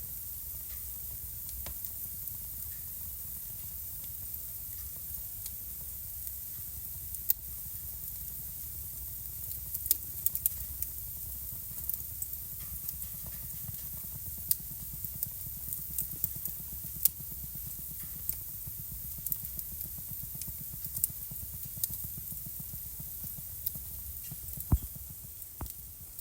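Wood fire burning in a fireplace: irregular sharp pops and snaps of crackling wood over a steady low rumble of the flames, with the pops coming more often in the middle stretch.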